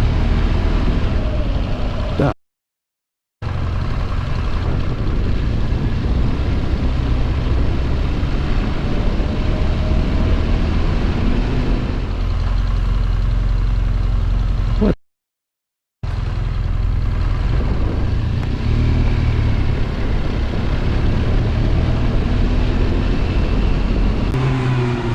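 Motorcycle ridden through traffic: engine running under heavy low wind noise on the rider's microphone. The sound cuts out to silence twice, briefly.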